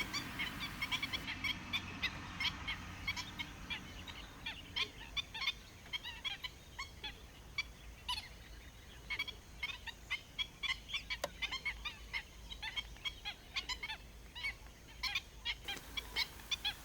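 Black-winged stilts calling: a rapid run of short, sharp yelping notes, several a second, continuing throughout.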